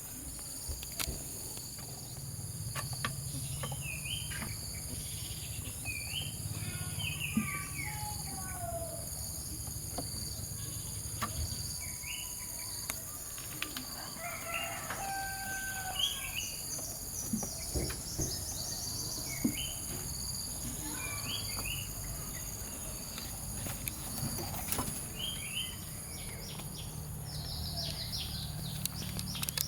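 Outdoor ambience: short bird chirps every few seconds over a steady high-pitched insect drone, with a low background rumble and scattered faint clicks.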